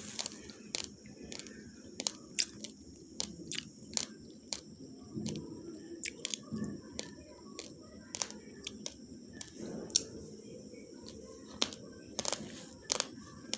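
Raw, uncooked basmati rice being chewed: a string of sharp, irregular crunches, a few a second, with short pauses between.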